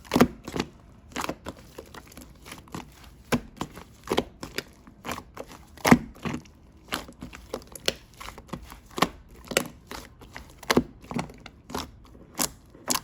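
Slime being pressed and squeezed by hand, making irregular sharp pops and clicks, one to three a second, with softer crackles between.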